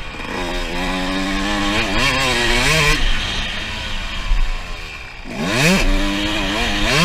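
2006 Suzuki RM125's single-cylinder two-stroke engine revving up and down while being ridden. The revs fall away for about two seconds near the middle, then climb sharply again a little past five seconds in.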